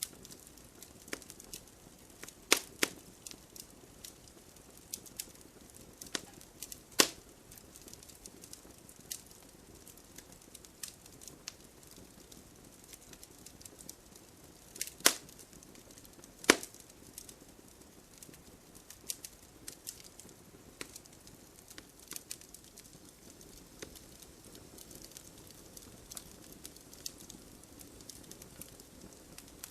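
Log campfire crackling: irregular sharp pops and snaps over a soft low hiss, with four louder snaps standing out.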